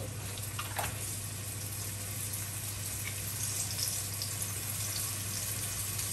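Floured pig's liver slices sizzling in hot oil in a non-stick frying pan: a steady, even hiss with a low hum underneath.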